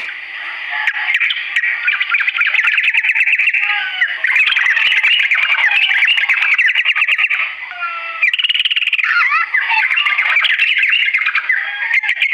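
Yellow-vented bulbul (trucukan) singing a long, fast run of chattering, gliding notes with hardly a pause, over a steady hiss.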